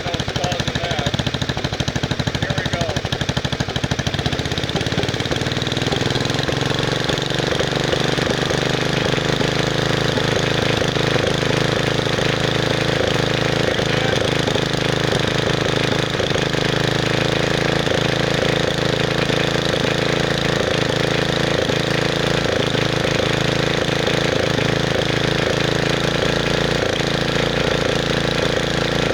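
Wisconsin S8D single-cylinder air-cooled engine on a Bolens 850 garden tractor running; its speed climbs slowly from about four to seven seconds in, then holds steady at the higher speed. The owner takes its uneven response to the throttle for a throttle and governor linkage fault, and hears knocking at high throttle.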